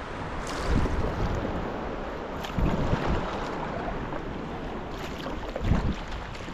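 Sea kayak on the water: splashing and water rushing along the hull, swelling three times about every two to three seconds, over wind buffeting the microphone.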